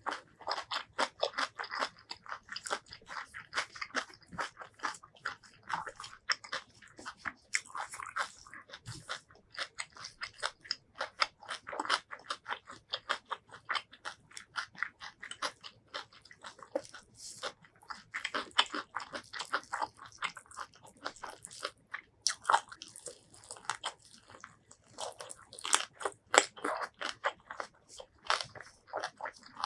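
Close-miked chewing and crunching of food: curry rice and raw green vegetables chewed in a steady run of crisp crunches and wet mouth sounds.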